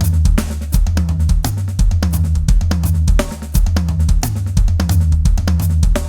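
Drum kit played fast: rapid, dense snare and bass drum strokes over a steady low kick pulse, with cymbal hits, in an advanced gospel-chops style groove.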